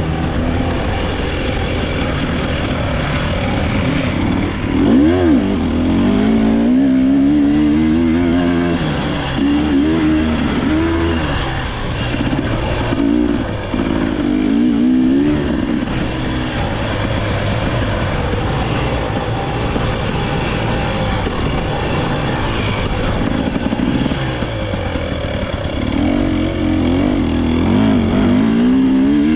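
Dirt bike engine being ridden hard, its pitch rising and falling again and again with the throttle.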